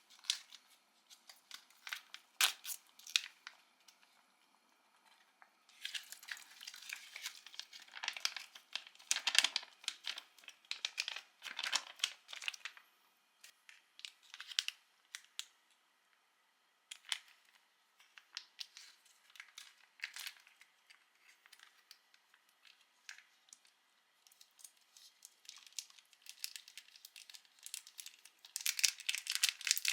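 Instant-food packaging being torn open and crinkled by hand, in irregular bursts of rustling and sharp crackles, busiest in the middle and again near the end.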